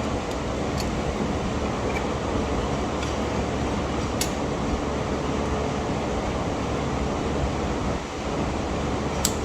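Steady background air noise, like a running fan, with a few faint light clicks of metal brake parts being handled.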